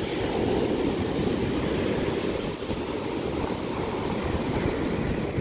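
Ocean surf washing in at high tide as a steady rush, with wind rumbling on the microphone.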